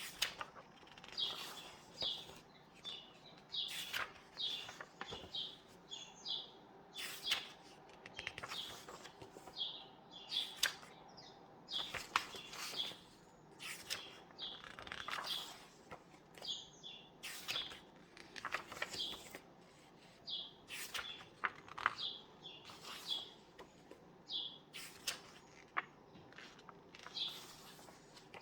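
Paper pages of a book being turned and handled, making repeated short rustles and flicks, with birds chirping over them.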